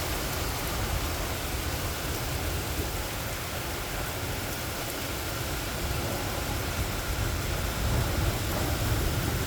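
Steady rain falling, with a low rumble of distant thunder underneath that swells near the end.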